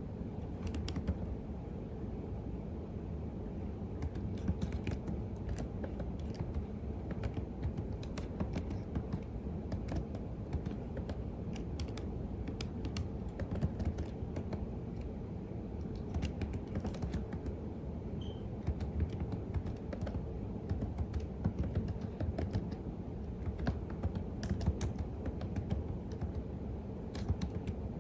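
Typing on a computer keyboard: an uneven, continuous stream of key clicks over a steady low background hum.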